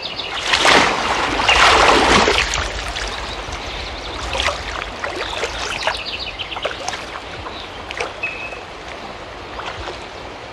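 River water splashing as a man is dunked under and lifted back out in a baptism by immersion. The biggest splash comes about a second in, followed by quieter sloshing and dripping.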